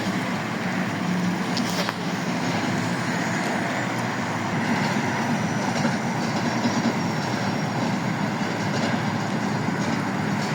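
LiAZ-677M city bus running, its ZIL V8 petrol engine humming steadily under a spread of mechanical and road noise.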